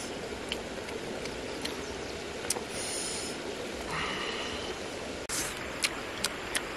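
Scattered small clicks of chewing and crunching on food over a steady outdoor background hiss.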